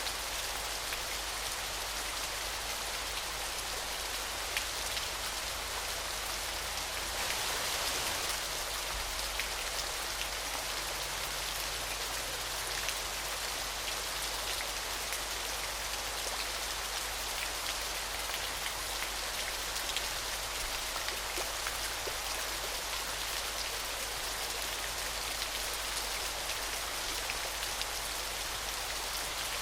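Falling water splashing steadily: an even hiss with many small scattered drop-like ticks and no break.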